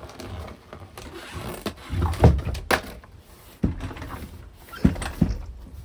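A handful of irregular knocks and thumps with low rumbling between them, the loudest about two seconds in.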